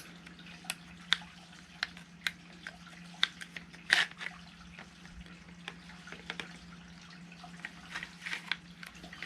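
Scattered light clicks and taps of small metal and plastic airsoft rifle parts being handled and fitted, as the GHK G5's barrel and hop-up assembly goes back into its upper receiver, with a louder knock about four seconds in. A faint steady hum runs underneath.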